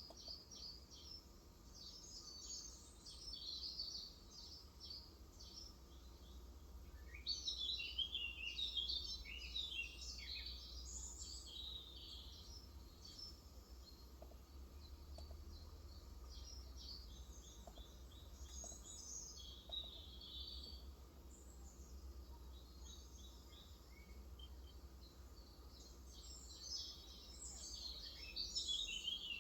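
Small birds chirping and twittering in quick overlapping bursts, busiest about a quarter of the way in and again near the end, over a faint steady low hum.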